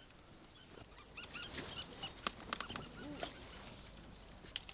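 Short, high chirps of small birds, a cluster of them about a second and a half in, with scattered sharp clicks and taps between them.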